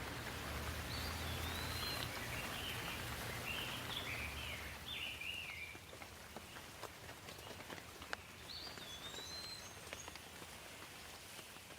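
Rain falling with scattered drips, and a songbird singing: a run of quick chirping phrases in the first half, then a single repeat of its opening phrase about nine seconds in. The rain hiss thins out about halfway through.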